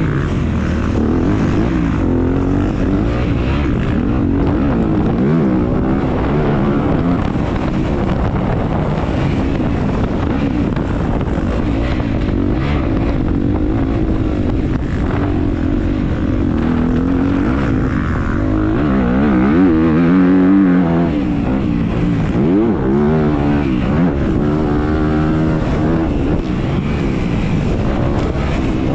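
Dirt bike engine heard from on board while racing, revving up and falling back again and again as the rider works the throttle and gears, with the pitch rising and dropping in quick sweeps that are loudest about two-thirds of the way through.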